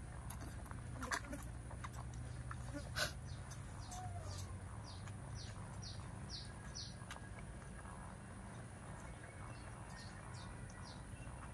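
Small bird chirping in short, high, falling notes, a quick run of about six near the middle and a few more near the end, over a low steady hum. Two sharp clicks come in the first few seconds.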